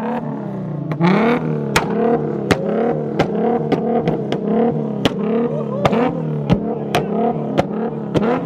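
A car engine revved over and over in short blips, its pitch rising and falling each time, with a sharp crack or pop on each blip, about one and a half a second.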